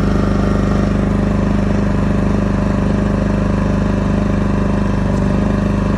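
WEN 3600-watt portable generator's engine running steadily at constant speed, on its first start.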